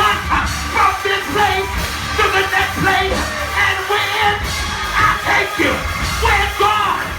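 Church praise music with a steady low bass and raised voices over it, their pitch bending up and down.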